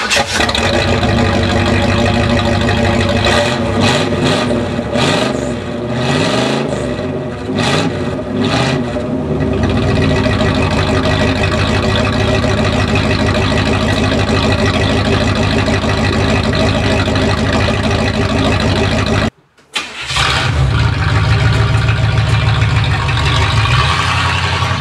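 1986 Chevrolet Caprice engine running with its muffler cut off, exhausting through an open, unmuffled pipe. It is loud, with a few revs in the first several seconds and then a steady run. The sound cuts out briefly about 19 seconds in and comes back.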